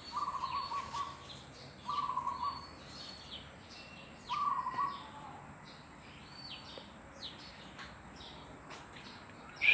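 Birds calling: three short warbling calls at one pitch in the first five seconds, with scattered faint high chirps from small birds.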